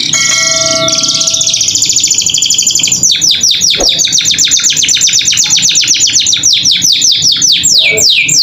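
Domestic canary singing vigorously: a fast buzzing trill with a few held whistled notes, then about three seconds in a rapid run of high down-sweeping notes, about six a second, that lengthen near the end.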